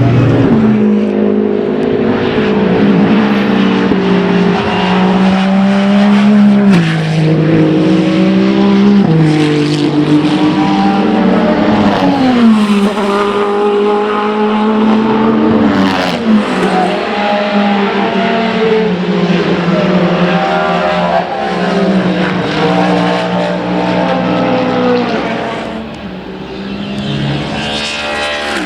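Race car engines at speed around the circuit, the engine note climbing in pitch and dropping sharply at each gear change, many times over. The sound dips briefly near the end before another car comes up.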